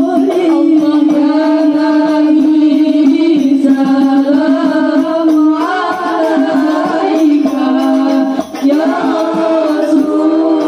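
Music with singing: voices carrying a melody over a steady held low note, with light percussion.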